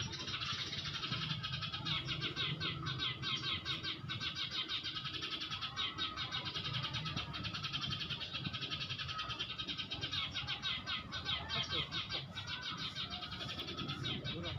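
Bird calls in fast, rapidly repeated chirping notes without a break, the lure sound used to draw wild birds to glue sticks, over a low background rumble.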